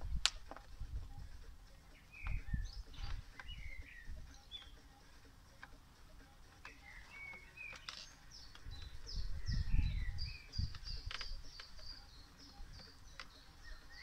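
Wild songbirds chirping and singing, with a quick run of repeated high chirps about nine to twelve seconds in. Low rumbles come and go underneath, the strongest about ten seconds in.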